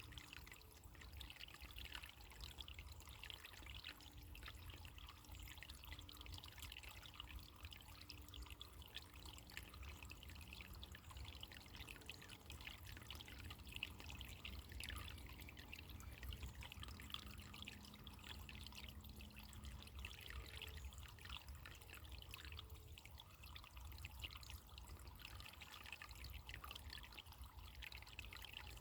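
Faint, steady trickle of running water, like a small stream.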